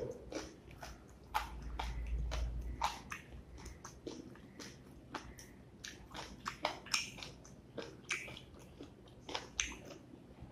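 Close-up eating sounds: wet smacking clicks of chewing a mouthful of rice and beef curry, with the soft squish of fingers mixing rice and lentil dal on the plate.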